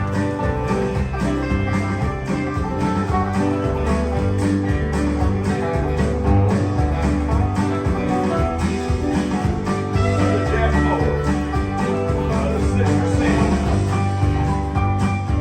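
Live country gospel band playing an instrumental break, with guitars and bass and no singing.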